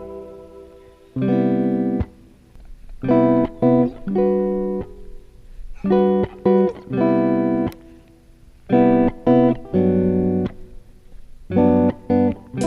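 Background music: an acoustic guitar strumming short chords in a stop-start rhythm.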